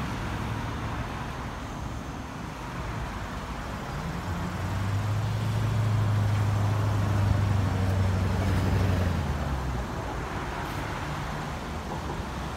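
A motor vehicle's engine hum that swells about four seconds in and fades again a few seconds later, over steady outdoor traffic noise.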